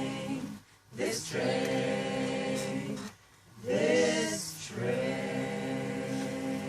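A cappella vocal ensemble singing sustained chords in three long held phrases, with short breaks at about half a second in and about three seconds in.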